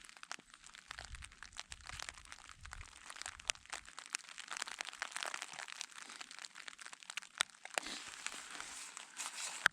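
Dense, irregular crackle of rain and hail drops striking rain-jacket fabric close by, with a faint low rumble in the first few seconds.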